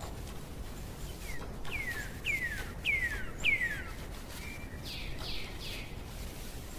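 A songbird singing: a run of five whistled notes, each sliding downward in pitch and growing louder, followed by three shorter, rougher notes, over a steady low background hum.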